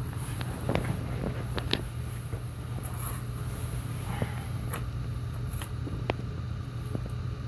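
A pet eating with scattered short clicks and crunches of food, about nine in all, heard over a steady low hum.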